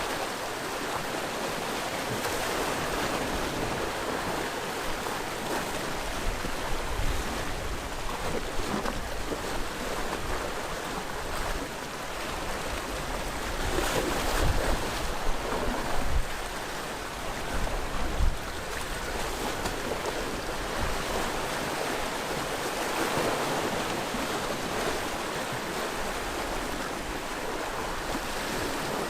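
Sea waves washing against a rocky shore, a continuous wash that swells louder several times, most strongly about halfway through, with some wind buffeting the microphone.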